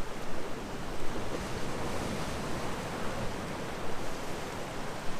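Ocean surf washing against a rocky shore, a steady rush, with wind rumbling on the microphone.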